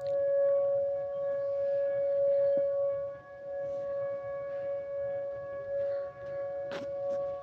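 Tornado warning siren sounding a steady, held tone with several overtones, dipping briefly in loudness about three seconds in.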